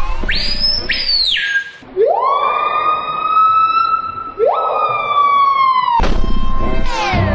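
Siren-like wailing. A short high whistle comes first, then two long tones that each sweep quickly up, hold, and slowly sink in pitch, the second starting about halfway through.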